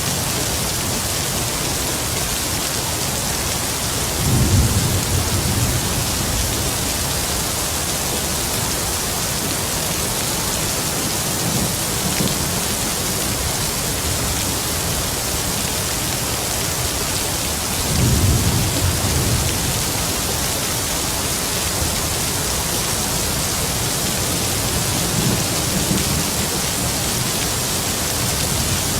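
Heavy rain falling steadily, with distant thunder rumbling low about four seconds in and again around eighteen seconds, and a fainter rumble later on.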